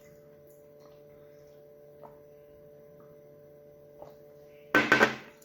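Steady electrical hum with a few faint clicks, then a short, loud noisy burst about five seconds in.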